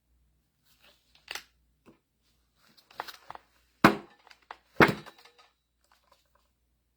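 A few scattered clicks and knocks from handling the reassembled mini-excavator hydraulic pump and tools, with two louder knocks about four and five seconds in.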